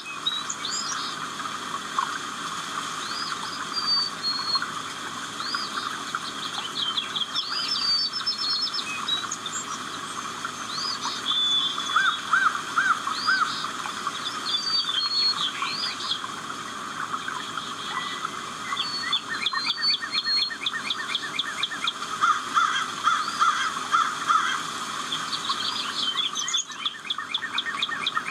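A chorus of several birds calling and singing at once: many short chirps and swooping notes with rapid trills, over a steady background of softer birdsong.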